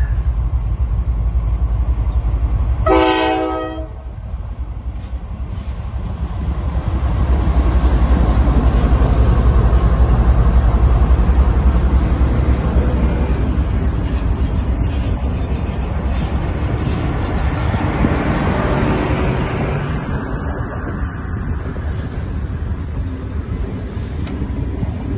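A diesel locomotive sounds one short horn blast about three seconds in. Then a passenger train rolls steadily past on the next track, its wheels and coaches rumbling, loudest partway through and easing toward the end.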